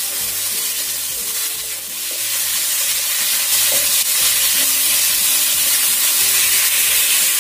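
Thin chicken slices sizzling in hot oil in a wok, stirred and tossed with a wooden spatula while they cook until they change colour. The sizzle grows louder about three seconds in.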